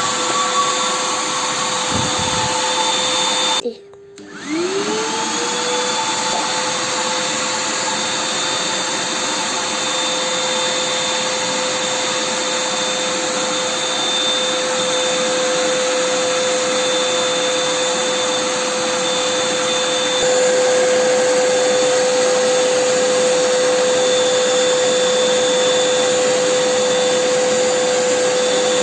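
Repaired vacuum cleaner's motor running with a steady whine. About four seconds in it switches off for a moment and then winds back up to speed, and it gets a little louder about two-thirds of the way through.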